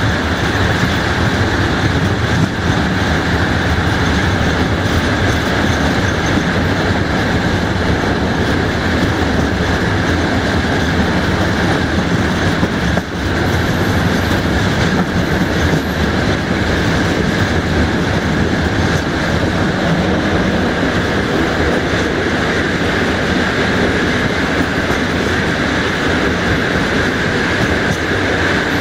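Passenger coaches rolling along the track at speed, heard from an open window: a loud, steady rumble of wheels on rails with a steady high ring over it.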